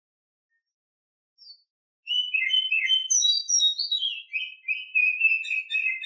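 Female Oriental magpie-robin (kacer) in breeding condition singing: a brief faint chirp, then from about two seconds in a rapid, unbroken string of varied notes that rises high and then settles lower.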